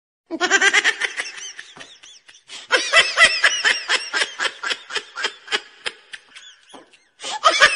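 High-pitched giggling laughter in rapid repeated bursts, several a second, starting suddenly just after the start and broken by short pauses.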